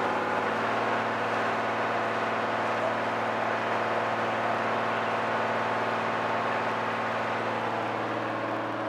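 Motor launch's engine running steadily under way, heard from on board: an even hum over a constant rushing noise.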